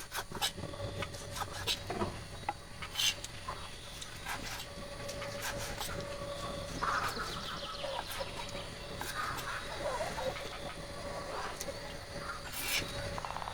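Chickens clucking on and off, mixed with scattered sharp clicks and knocks.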